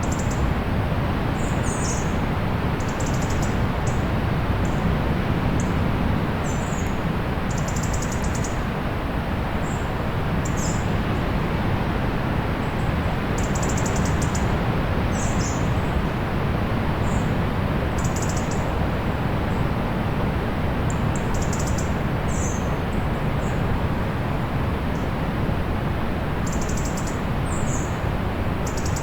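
Small birds calling in short, high chirps and brief buzzy trills about once a second, over the steady wash of sea surf.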